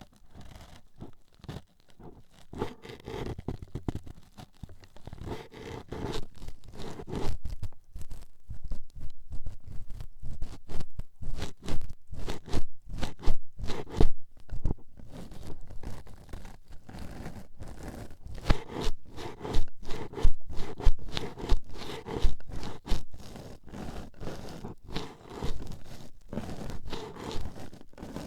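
Toothpicks rapidly jabbing and scraping into a microphone's ear, a dense run of scratchy taps and crunches. Softer for the first couple of seconds, then busier and louder.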